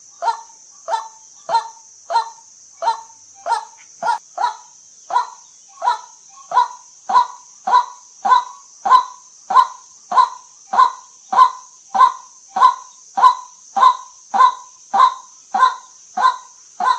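White-breasted waterhen giving its repeated 'kwak' call: short honking notes in a steady, even series of about three calls every two seconds, with a constant high hiss underneath.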